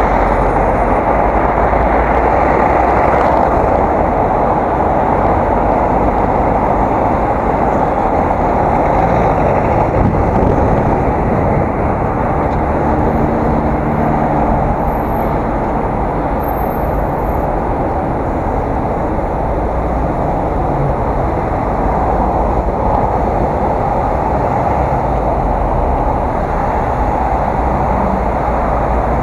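Steady rush of wind and road noise on an action camera's microphone while riding a bicycle, with a faint humming tone about halfway through.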